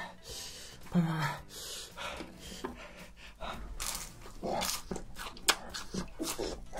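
Close-up crunchy bites and chewing of a Cheetos-crusted fried rice-cake hot dog, with sharp breaths drawn in between from the heat of the spicy food.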